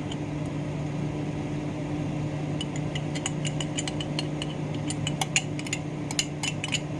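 Microwave oven running with a steady hum, and a scatter of light clicks from about two and a half seconds in.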